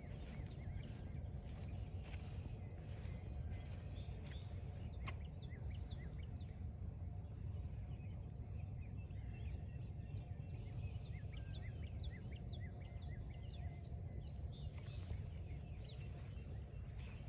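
Small songbirds chirping: a busy run of short, quick calls that is densest mid-way, over a steady low rumble. Footsteps on the trail tap and crunch in the first few seconds and again near the end.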